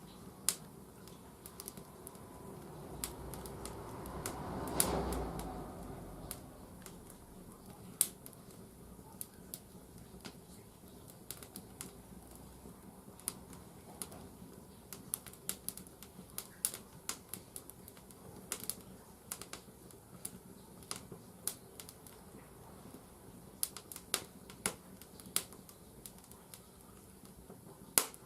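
Firewood crackling and popping in the firebox of a wood-fired bathhouse boiler over 30 years old, with irregular sharp cracks. About four seconds in, a rush of sound swells and fades.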